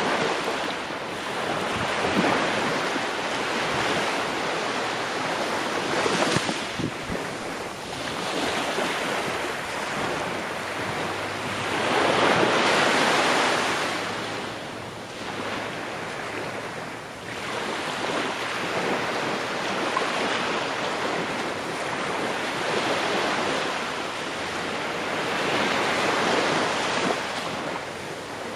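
Ocean waves breaking on a shore, the surf swelling and falling back every few seconds, with one louder wave about twelve seconds in.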